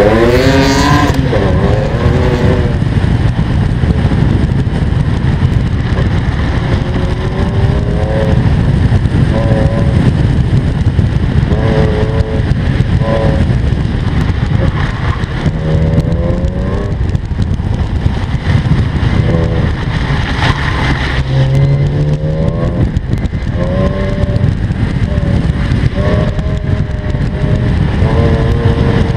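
BMW Z4 coupe engine on an autocross run, revving up and dropping off again and again as the driver works the throttle through the cones. A steady rush of road and wind noise sits beneath it.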